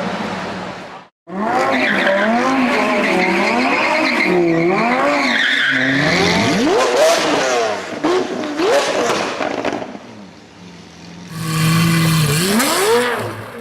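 Lamborghini Aventador V12 engines being revved hard in quick blips, the pitch rising and falling again and again and sweeping up sharply, after a brief break to silence about a second in.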